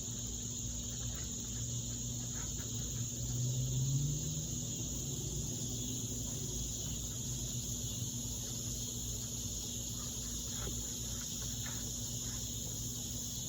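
Steady high-pitched chorus of insects, with a low steady hum underneath and a few faint ticks.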